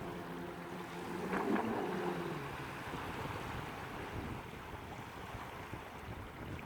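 Wind and water noise on the microphone, with a low motor hum in the first couple of seconds that drops in pitch and fades out.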